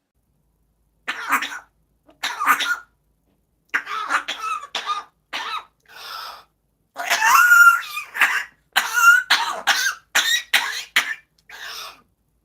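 Parrot imitating a person coughing and choking: a string of short hacking coughs with squeaky, pitched edges, broken by short gaps and loudest about seven to nine seconds in.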